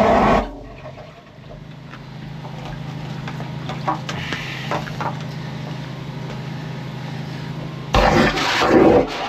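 Drain-jetting machine's engine running steadily after a loud rush of jetting cuts off about half a second in, with a few light knocks in the middle. Water rushes loudly again near the end.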